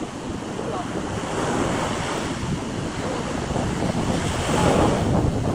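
Sea waves washing onto a beach, the surf swelling and easing, with wind rumbling on the microphone.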